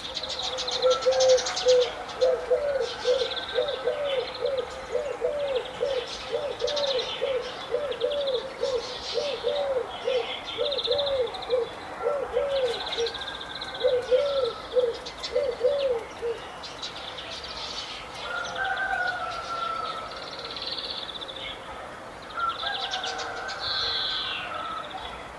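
Several birds singing and calling together: bursts of high chirps and trills with some whistled phrases, and a low hooting note repeated about twice a second that stops about two-thirds of the way through.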